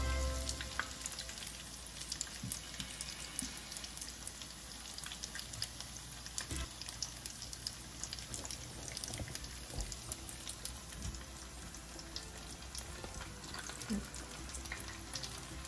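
Turon (banana spring rolls) and cheese sticks shallow-frying in hot oil in a pan: a steady sizzle dotted with many small crackles and pops.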